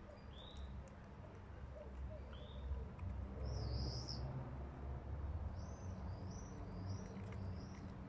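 A small bird chirping: two single chirps early, a louder call about three and a half seconds in, then a run of five short chirps at about two a second near the end, over a low background rumble.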